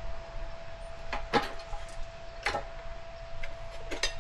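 Tire irons knocking and scraping against a dirt bike rim as the tire bead is levered on by hand: a few short clicks and scrapes about a second apart, over a faint steady hum.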